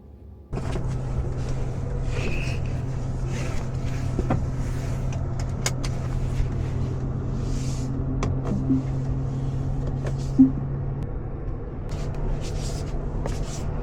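Tesla electric car driving: a steady low hum of road and tyre noise, starting abruptly about half a second in, with scattered small clicks and knocks and one sharper click about ten seconds in.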